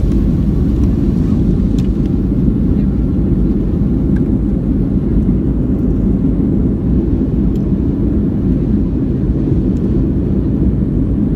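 Boeing 757-200's Rolls-Royce RB211 turbofans at takeoff thrust during the takeoff roll, heard inside the cabin as a loud, steady, deep roar.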